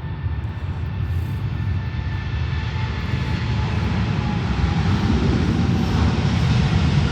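Boeing 787 Dreamliner's jet engines at takeoff power as the airliner rolls for takeoff: a deep rumble with a faint whine, growing steadily louder.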